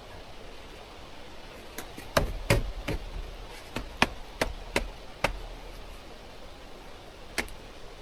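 A run of sharp, irregular knocks, about eight in three seconds, then a single knock near the end.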